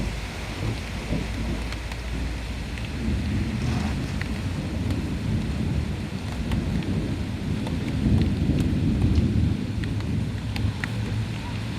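Heavy rain falling steadily, with sharp drop hits, under a long rolling rumble of thunder that swells about three seconds in and is loudest past the middle.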